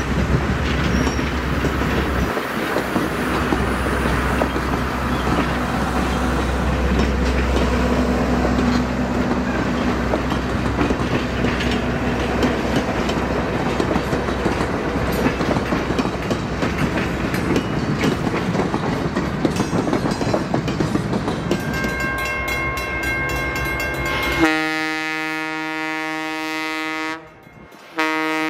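Heber Valley Railroad train running: a steady noisy rumble and clatter of wheels on rail. About 24 seconds in, this gives way to a loud, steady locomotive horn chord that holds through the end, with a brief drop-out just before the end.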